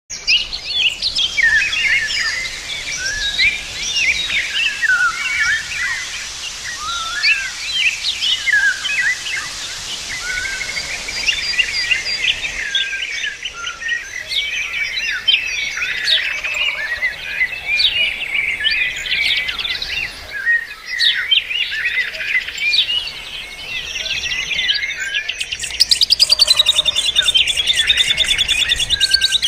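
Several songbirds singing at once, a busy chorus of overlapping chirps, whistles and warbles. About 26 seconds in, a fast, evenly pulsed trill comes in and is the loudest sound to the end.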